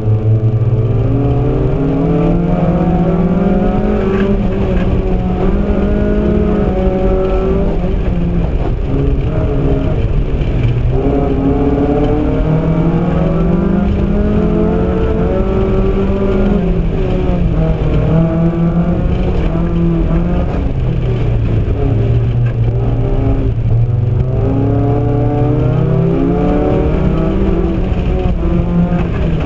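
Opel Corsa 1.4 16V four-cylinder engine heard from inside the cabin, driven hard at high revs. The engine pitch climbs and drops again several times as the car accelerates and lifts off through a slalom.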